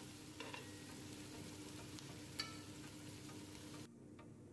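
Chopped onion, lemongrass and galangal sizzling in hot oil in a non-stick pot, with a metal spoon stirring and clinking against the pot a couple of times. Near the end the sizzle cuts off abruptly and light, regular ticking follows.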